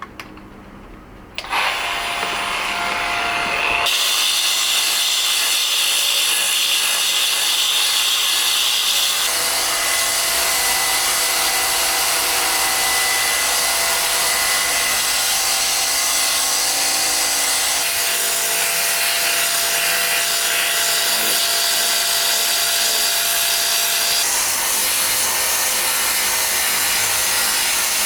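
A handheld power tool running against stone, starting about a second and a half in and then running steadily with a motor whine. A few light clicks come before it starts.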